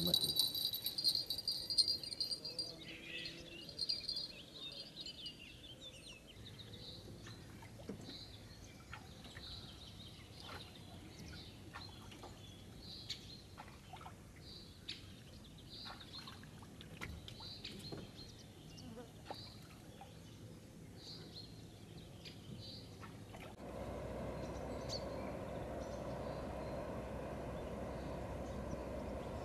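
Quiet riverside morning. A small fishing-rod bell's ringing dies away in the first two seconds, then short high bird chirps repeat about once a second. About 24 seconds in, a steady low hum starts suddenly and holds.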